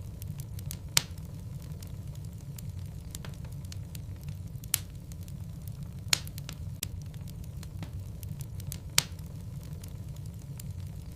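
Wood logs burning in a fireplace: a steady low rumble of flames broken by sharp crackles and pops, the loudest about a second in and near five, six and nine seconds.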